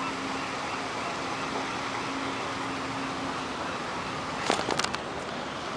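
Steady background hum and hiss with a faint low tone through the first few seconds, then a short cluster of sharp clicks near the end.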